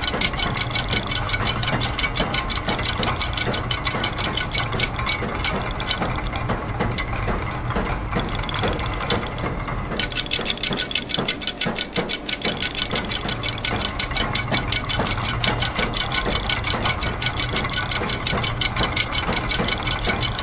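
A mix of looped machine sounds: gear trains, ratchets and clockwork clicking rapidly and densely over a steady low mechanical hum. The high, sharp clicking thins out for a few seconds about a third of the way in, then comes back.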